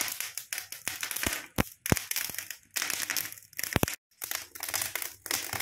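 First fire in a newly built brick fireplace with a fireclay firebox: kindling and paper burning with dense, irregular crackling and a few louder pops. The fire is drawing strongly.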